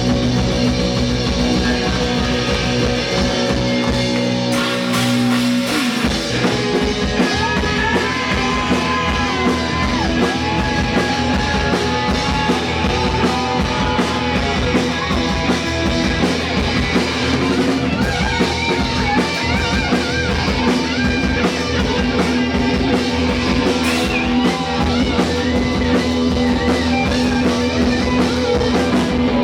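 A live rock band playing electric guitar, bass and drum kit. The drums come in with a steady beat about six seconds in, under a lead line of bending, held notes.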